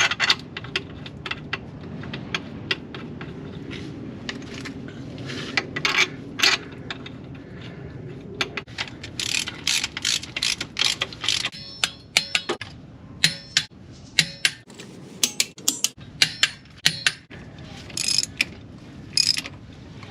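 Hand ratchet clicking in irregular strokes and short runs on the bottom end of a G23 engine, with fresh connecting rod bearings just fitted. The engine is being buttoned up and then turned over by hand, and it turns very smooth.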